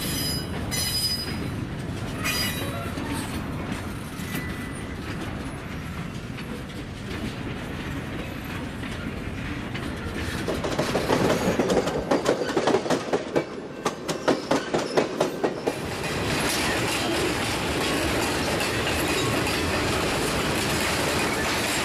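Freight train of empty boxcars rolling past, its steel wheels rumbling on the rails with a brief high wheel squeal near the start. About halfway through comes a run of sharp rhythmic clacks as the wheels cross rail joints, then a steady brighter rolling noise.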